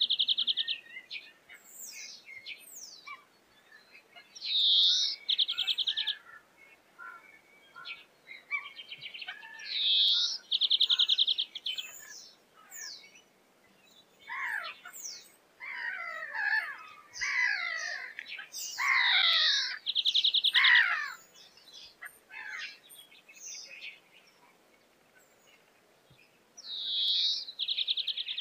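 European greenfinch singing: a repeated phrase of a rising-and-falling whistle followed by a fast, even trill, heard five times, with a stretch of rapid twittering in the middle.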